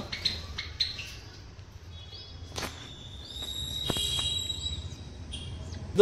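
Small cage birds chirping: a few short, high rising chirps and a thin high whistle, with a couple of sharp clicks as the clay nest pot is handled.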